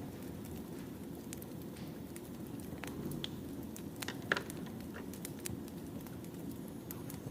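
Firewood burning, with a steady low rush and scattered sharp crackles and pops; the loudest pop comes a little past four seconds in.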